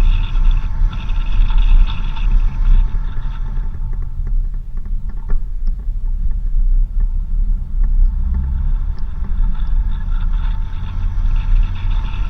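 4x4 vehicle driving on a dirt road: a loud, steady low rumble of engine and tyres. Higher steady tones over it drop away for a few seconds in the middle, where a few light clicks are heard.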